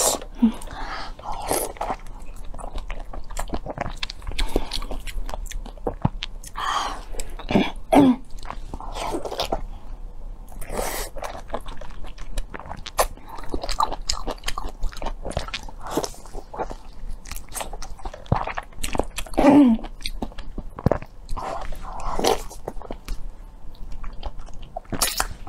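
Close-up biting and chewing of a blood sausage in pig-intestine casing dipped in chili-oil sauce: a steady run of short wet mouth clicks and smacks, with a few brief hummed murmurs.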